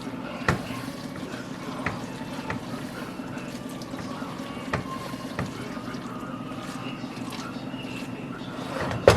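Macaroni and cheese being stirred in a pot: a wet, sloppy stirring sound with a few sharp clinks of the spoon against the pot, over a steady low hum.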